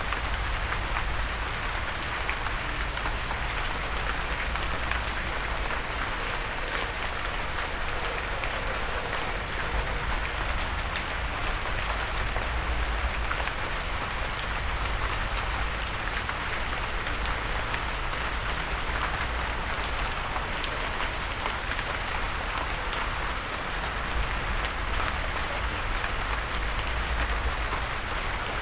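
Steady rain falling on a surface, a continuous even patter with scattered individual drop ticks.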